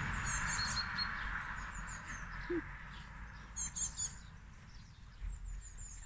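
Small birds chirping, with a few quick high chirps shortly after the start and another run just past the middle, over a faint steady low background.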